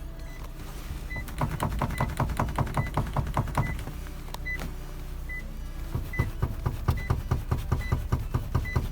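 Renault Kangoo rear seat backrest knocking rapidly in its latch, in two runs of quick clatter about five or six knocks a second, over a low steady hum. The backrest is not braced firmly where it locks into place.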